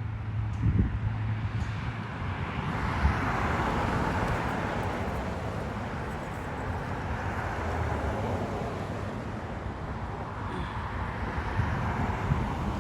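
Road traffic going by: the hiss of passing cars swells and fades a few times over a low steady hum.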